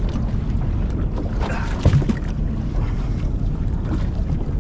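Wind buffeting the microphone on an open boat, a steady low rumble, with one short knock about two seconds in.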